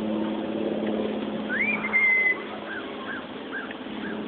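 A parrot whistling: one rising whistle that levels off into a held note, followed by a run of short chirping whistles about twice a second. A low steady motor hum fades out about a second and a half in.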